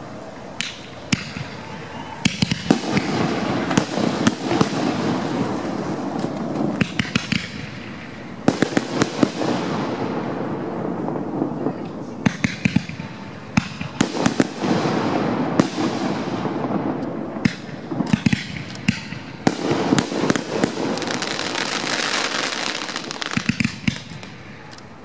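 Fireworks display: many sharp bangs from shells launching and bursting, coming in clusters over a continuous noisy wash. It eases off near the end.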